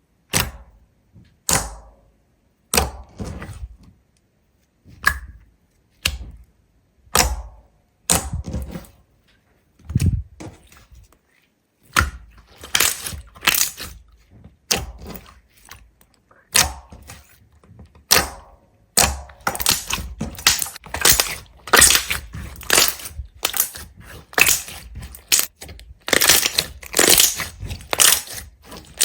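Sharp cracks and crunches of something brittle being broken, one about every second at first, then faster and overlapping from about halfway through.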